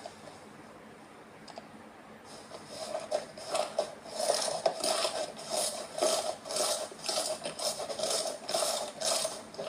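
Slime being squeezed and pressed by hand: after a quiet start, a run of short crackling squishes, two or three a second.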